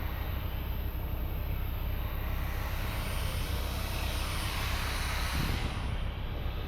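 Diesel truck engine running steadily with a deep drone, a hiss swelling over it around the middle.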